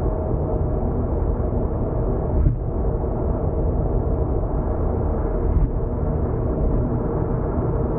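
Steady road noise of a car cruising on an expressway, heard inside the cabin: a low tyre and engine rumble with a faint steady hum. Two brief soft thumps come about two and a half and five and a half seconds in.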